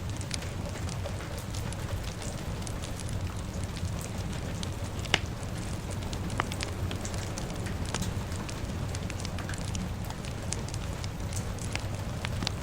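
Fire crackling with scattered sharp pops over a steady wash of rain, one louder pop about five seconds in.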